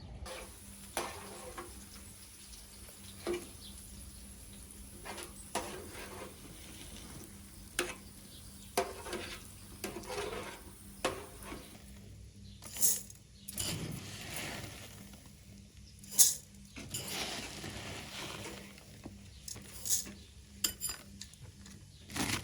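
Kitchen utensils and cookware clinking and knocking irregularly, as in stirring and handling pots and dishes, with a few short, louder bursts of hiss.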